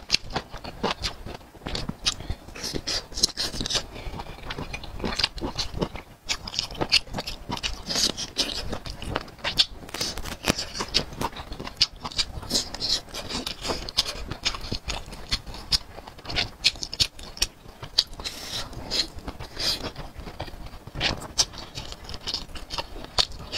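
Close-miked chewing and lip-smacking of spicy grilled skewered food, a dense run of irregular wet clicks and smacks, several a second.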